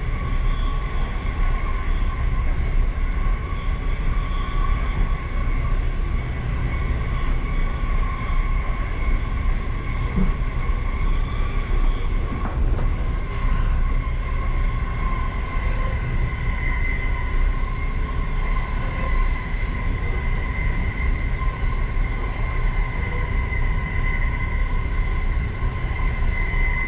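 Passenger train running steadily, heard from inside the last car: a constant low rumble of wheels on the rails with a steady high whine over it.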